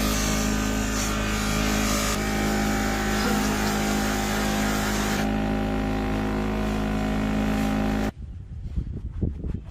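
An electric power tool running steadily with a grinding noise over its motor hum, switched off suddenly about eight seconds in. Quieter irregular rubbing and scraping follows near the end.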